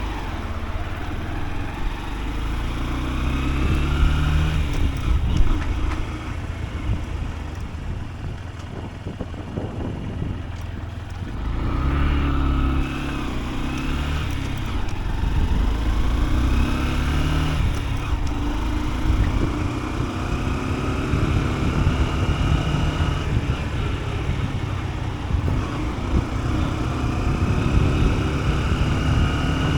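Honda CB125F's small single-cylinder four-stroke engine pulling the motorcycle along, its pitch climbing and then dropping back several times as it shifts through the gears.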